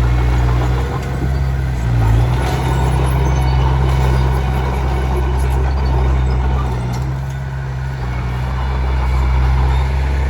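Komatsu D21P small bulldozer's diesel engine running steadily, working, with a few light clinks.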